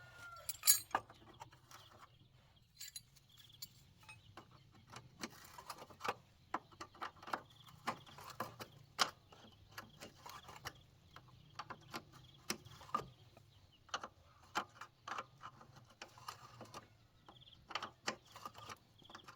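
Irregular metallic clinks and taps of hand tools being handled during motorcycle tyre and inner-tube work, dozens of short knocks at an uneven pace.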